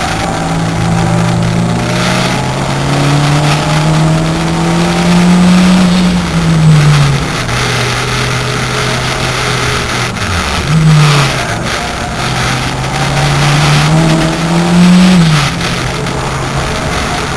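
Race-prepared VW Corrado's 1.8-litre turbocharged four-cylinder engine at race pace, heard from inside the cabin. The revs climb for about six seconds and then fall away, dip and rise sharply once a little past the middle, then climb again and drop off about two seconds before the end.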